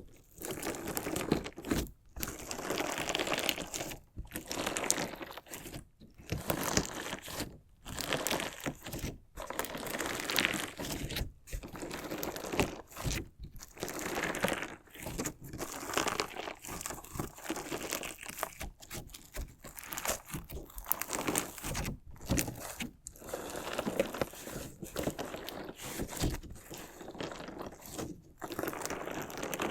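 Crunchy slime being cut and squeezed, crackling and crunching in repeated bursts about one to two seconds long, with brief pauses between them.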